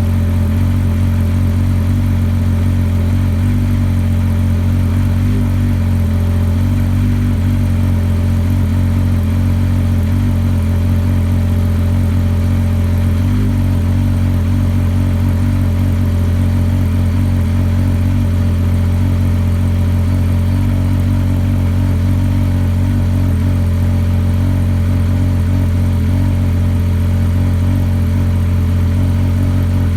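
A 2014 Yamaha Viper RTX SE snowmobile's three-cylinder four-stroke engine idling steadily through an MBRP Race Can exhaust while it warms up, with a deep, even note that holds without revving.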